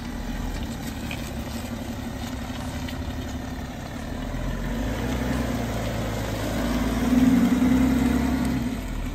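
BMW X5 (E70) inline-six diesel engine running as the SUV moves slowly at low speed, a steady low hum that grows louder for a second or two near the end.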